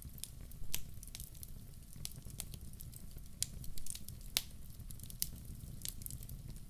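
Wood fire burning in a fireplace: a low steady rumble of flames with irregular sharp crackles and a few louder pops from the burning logs.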